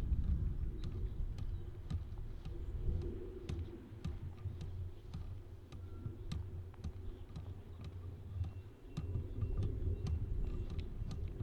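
Toyota 8FBMKT20 electric forklift running: a steady low hum from its electric drive and hydraulics, with many scattered sharp clicks and knocks.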